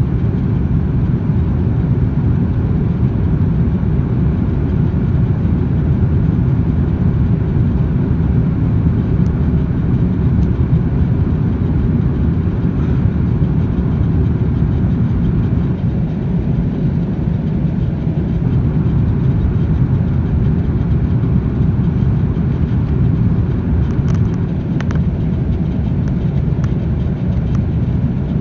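Steady low rumble of an Airbus A330 airliner in flight, the engine and airflow noise heard inside the cabin.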